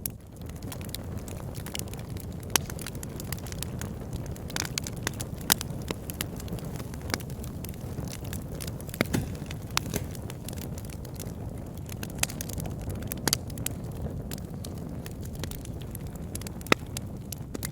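Wood fire burning in a fireplace: a steady low rumble of flames with irregular crackles and sharp pops, a few louder snaps scattered throughout.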